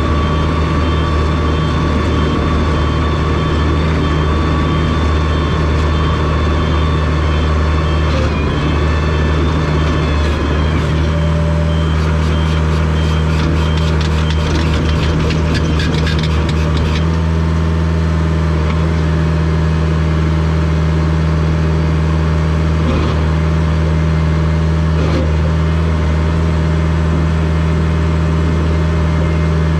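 Rubber-tracked Komatsu bulldozer's diesel engine running steadily under load. A stretch of rapid clattering comes in about midway and lasts a few seconds.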